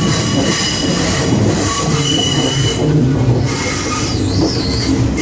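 Passenger train running on the rails, with a steady low rumble and high metallic wheel squeal; about four seconds in, the squeal wavers up and down in pitch.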